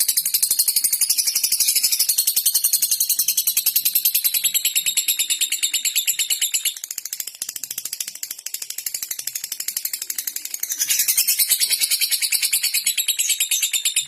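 Lovebird giving its rapid 'ngetik' call: a fast, even run of high ticks like typing, going on without a break and dropping quieter for a few seconds midway.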